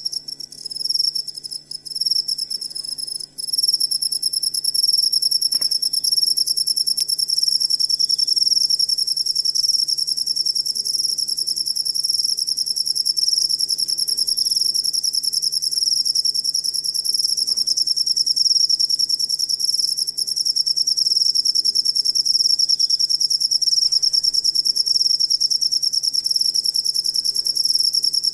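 Cricket chirping in a fast, high-pitched pulsing trill. It stutters on and off for the first few seconds, then runs unbroken.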